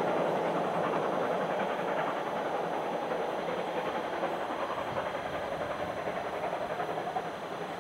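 A train rolling away along the track, its wheels on the rails making a steady rushing rumble that slowly fades.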